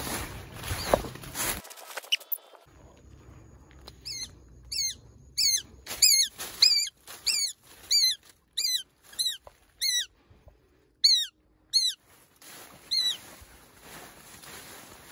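Rustling through leafy undergrowth, then a bird giving more than a dozen sharp, down-slurred calls, about one and a half a second, before the rustling of movement through the plants returns near the end.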